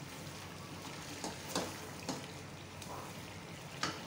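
Mutton and spices sizzling in oil in an aluminium pressure-cooker pot during the bhuna (dry-roasting) stage of a korma, with a few short scrapes and knocks of a silicone spatula against the pot as it is stirred.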